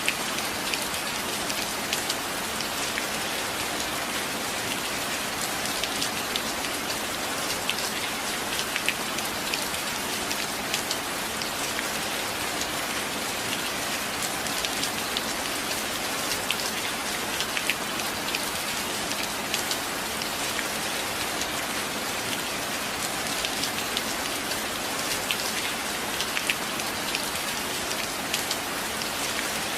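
Steady rain falling, an even hiss with many separate drops ticking sharply over it.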